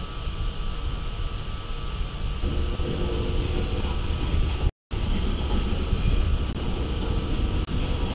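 Freight train's covered hopper cars rolling past, a steady low rumble of steel wheels on rail with a faint steady high tone above it. The sound cuts out for an instant about four and a half seconds in, a dropout in the live stream.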